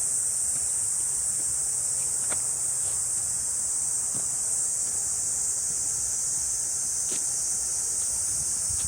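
Cicadas buzzing in a continuous high, steady drone.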